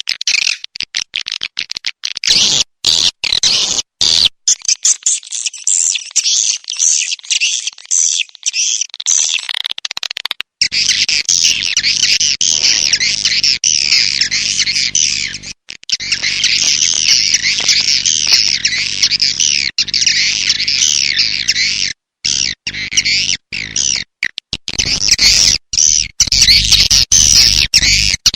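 Recorded swiftlet lure call: dense, overlapping high chirps of edible-nest swiftlets, of the kind played to draw swiftlets into a nesting house. The recording cuts out briefly several times, and a low steady hum sits under it from about a third of the way in.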